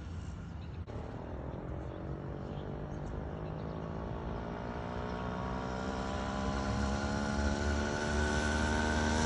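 Small petrol engine of a motorized bicycle running, its note climbing steadily and growing louder as it speeds up or comes closer.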